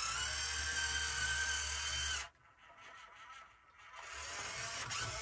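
Kyosho Mini-Z 4x4 4Runner micro RC crawler's electric motor and drivetrain whining steadily as it climbs, then cutting off abruptly about two seconds in. A fainter whir builds again near the end.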